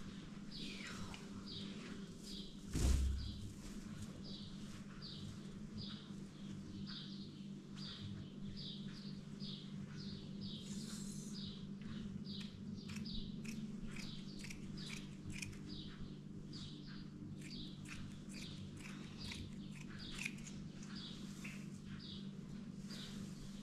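A small bird chirping over and over, a short chirp every second or so, over a steady low hum. A single thump about three seconds in.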